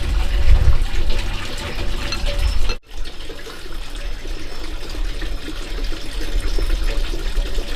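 Water running steadily with an even rushing noise, cut off for a moment about three seconds in before it carries on.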